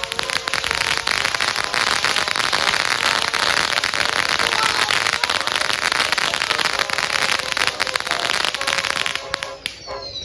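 Consumer fireworks crackling: a dense, steady stream of tiny crackling pops for about nine seconds. It thins out near the end, where a couple of falling whistles start.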